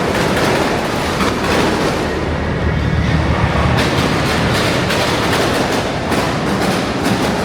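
Loud car-meet din: many car engines and exhausts running close by, with a deep rumble that swells about two seconds in and some sharp cracks later.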